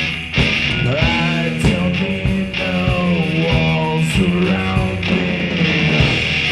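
Rock band playing: a bending lead line, most likely electric guitar, over a held bass note and steady drum hits.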